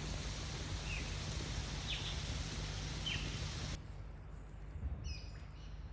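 Birds chirping over a steady outdoor hiss: short falling chirps about once a second. The background hiss drops off suddenly about two-thirds of the way in, after which a few higher, quicker bird calls follow.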